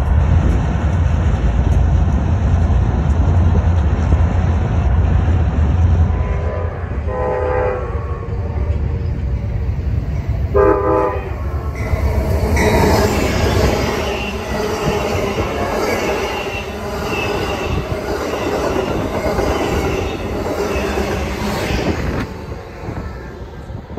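Low diesel rumble from switcher locomotives for the first few seconds. Then an Amtrak passenger train sounds two short horn blasts as it approaches and passes at speed with loud wheel and rail noise.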